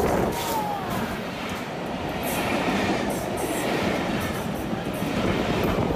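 Locomotive-hauled double-deck passenger train passing along the track at a steady speed: a continuous, even noise of wheels on rails.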